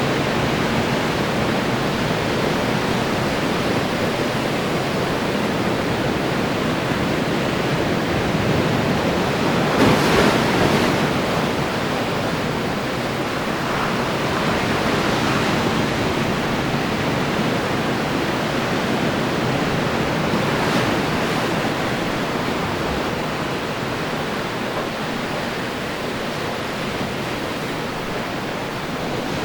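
Ocean surf: waves breaking and washing in a continuous rush, with one louder breaker about ten seconds in and smaller ones a few seconds later and near the middle.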